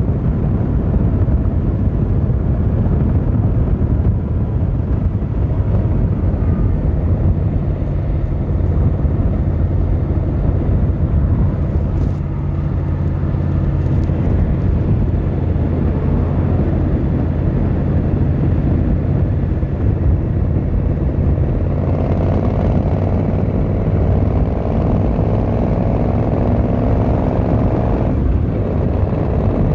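Yamaha XVZ1300 Royal Star's V4 engine and exhaust running steadily under way on the road. A faint, slowly rising whine joins in about two-thirds of the way through.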